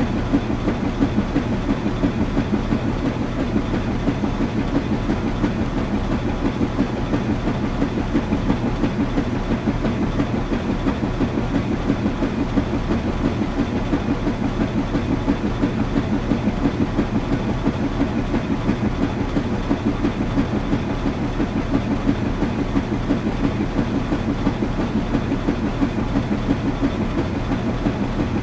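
Washing machine running steadily, its drum churning in a quick, even pulsing rhythm over a low hum.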